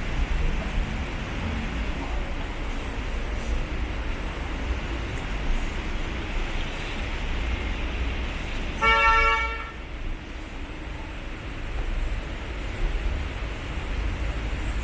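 Steady city traffic noise, with a single vehicle horn honk lasting under a second about nine seconds in.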